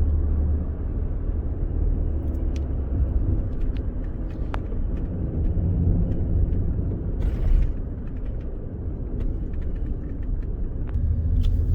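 Ford Expedition driving on a snow-covered road: a steady low drone of engine and tyres, with scattered light clicks and a brief hiss about seven seconds in.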